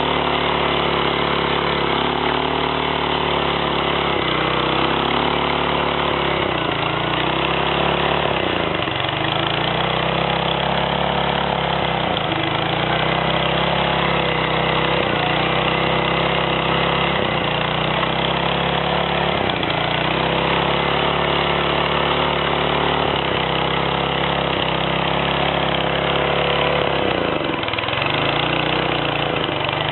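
An engine running steadily, its pitch dipping briefly every two to three seconds.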